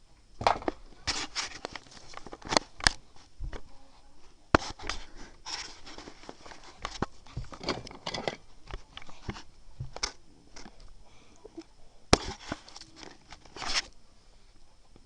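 Small objects being handled: irregular clicks, knocks and rustles at close range, with a few sharper taps.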